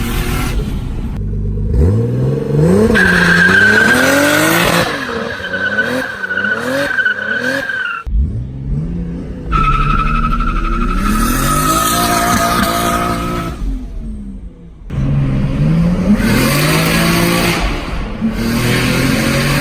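Single-turbo 2JZ-GTE inline-six in a Lexus IS300 under hard acceleration, its pitch climbing and dropping repeatedly through revs and gear changes, with a steady high-pitched whine over it for several seconds at a time. The sound breaks off abruptly a few times, once about a second in, again near the middle and again about three quarters through.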